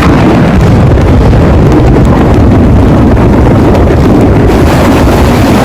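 Loud, deep rumble of thunder over heavy rain. It holds steady, then falls away sharply near the end, leaving rainfall.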